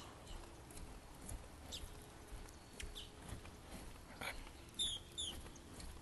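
Faint, scattered bird chirps: a few short high calls, then two quick falling chirps about five seconds in, over a faint steady hiss.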